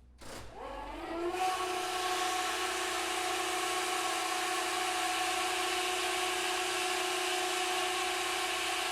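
Timing-gear foam pump starting up, its whine rising in pitch over the first second or so, then running at a steady pitch with a loud mechanical whir. At about 106 dB, it is as loud as a rock concert.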